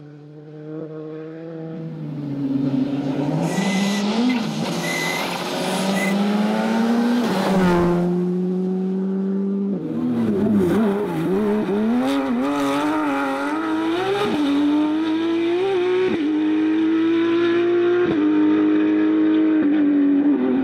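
Rally car engine getting louder as it approaches, revving up and dropping in pitch again and again through gear changes and lifts.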